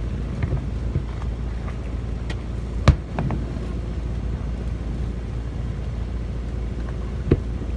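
Fireworks going off: several sharp bangs, the loudest about three seconds in and another near the end, over a steady low rumble.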